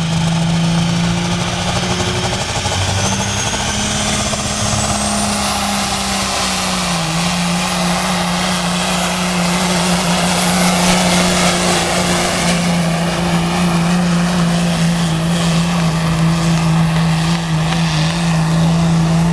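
Diesel pulling truck's engine running hard under full load during a pull, a loud steady drone. A high whistle rises about three to five seconds in, and the engine's pitch drops slightly around seven seconds in.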